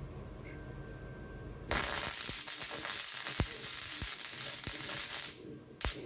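Wire-feed welder running a short bead on steel: a steady crackling hiss starts about two seconds in and lasts about three and a half seconds, then a brief second zap near the end.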